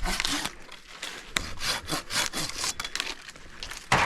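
Hand pruning saw cutting through a tree branch in quick back-and-forth strokes, about three or four a second, with a short pause about a second in.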